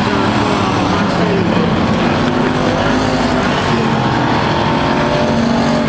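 A field of racing trucks running laps together, several engines at once rising and falling in pitch as they pass, over a steady wash of crowd and track noise.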